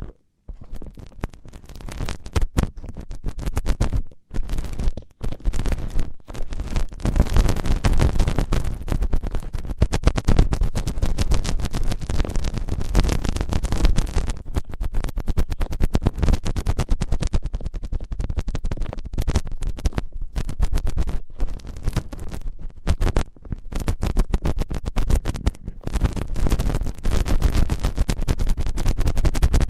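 Fast, dense scratching and rubbing right against the microphone, ASMR ear-cleaning sounds, with a few brief pauses in the first several seconds.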